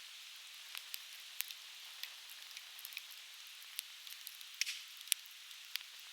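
Conifer logs burning in a campfire, crackling with sharp irregular snaps, the loudest about five seconds in, over the steady rush of a stream.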